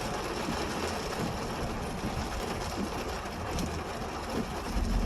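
Steady rushing noise of rain and running floodwater.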